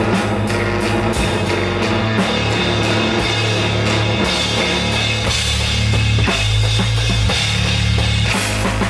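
Live rock band playing loud: drum kit with steady cymbal strokes, bass guitar holding low notes that shift every second or so, and guitar.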